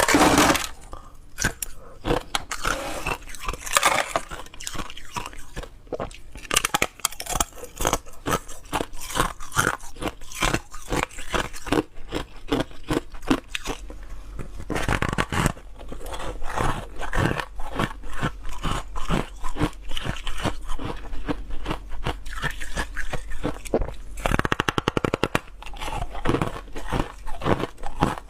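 Ice being bitten and chewed close to the microphone: a dense run of irregular, sharp crunches, with a quick rattling run of small cracks near the end.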